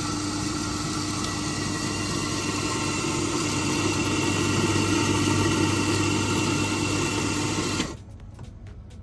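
Coffee machine motor running with a steady, buzzing hum while the dummy coffee is made, growing slightly louder, then stopping abruptly about eight seconds in.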